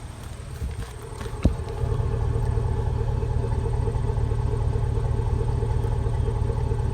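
Exhaust of a 2002 Chevy Avalanche's 5.3-litre V8 idling warm at the muffler, a steady low pulsing that grows louder just under two seconds in, after a single sharp click. The owner hears a ticking in it that he takes for a cracked exhaust manifold, and wonders whether it could be a misfire.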